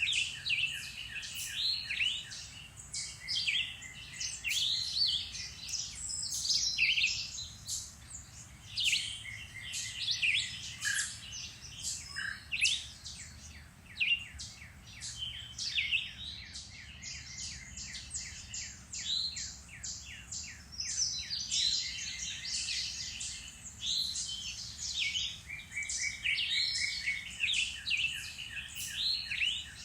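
Several songbirds singing at once, a dense chorus of chirps, trills and sweeping whistled notes, with a rapid even trill near the start and again a few seconds before the end.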